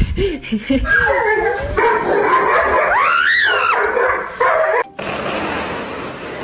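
Dog whining and howling in drawn-out, wavering cries, one of them rising to a high note about three seconds in. The cries stop abruptly about five seconds in, followed by a steady rushing noise.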